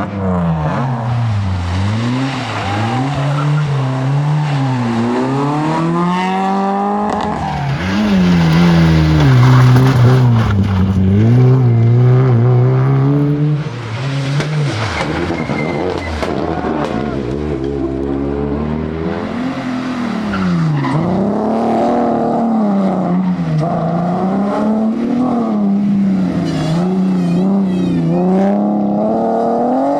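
Rally car engine driven hard, its pitch rising and falling over and over as it revs up and drops back, louder for a few seconds about a third of the way in.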